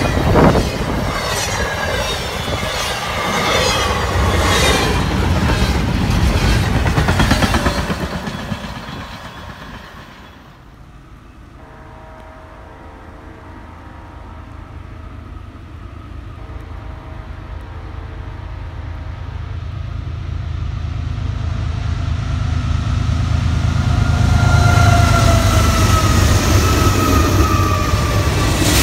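A passing freight train's wheels clatter in a steady rhythm and fade away by about ten seconds in. A BNSF freight led by diesel locomotives then approaches sounding its horn in several blasts. The engine rumble grows loud as the locomotives go by, and the horn's pitch drops as they pass.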